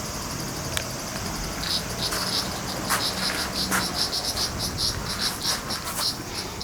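Insects chirping outdoors: a steady high-pitched buzz, joined about two seconds in by a fast, rhythmic chirping of several pulses a second, with a few sharp clicks.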